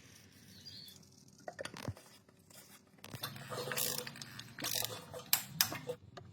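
Scattered clicks, taps and light knocks, with a faint low hum starting about three seconds in.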